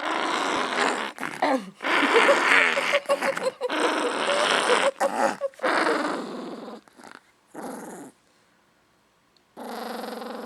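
Dog growling in rough bursts for about six seconds, fading out, then a short growl again near the end.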